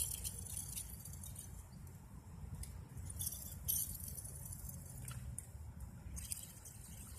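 Fishing reel being cranked to bring in line: a few short spells of light metallic rattling over a low steady rumble.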